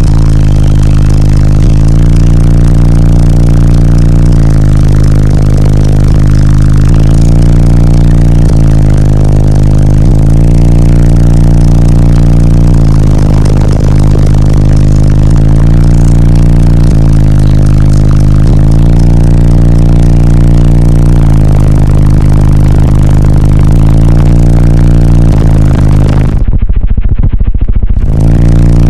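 Bass-heavy music played at extreme volume through a car stereo of six 12-inch subwoofers on about 30,000 watts of amplifier power. Deep sustained bass notes change every couple of seconds and sound overdriven. Near the end the upper sounds drop out for about a second and a half, leaving only the bass.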